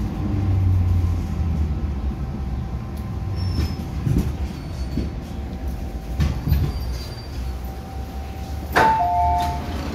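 MTR Island Line M-Train car running, a steady low rumble with a faint steady whine. Near the end comes a sharp clunk, followed by a two-note beeping tone.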